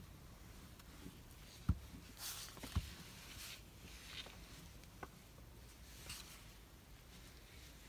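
Paper and craft pieces being handled on a desk: soft rustles of paper with a few light taps and knocks, two sharper ones in the first three seconds.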